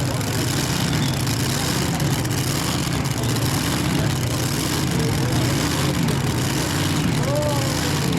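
Twin-engine pulling tractor's engines running loudly and steadily, their pitch wavering up and down.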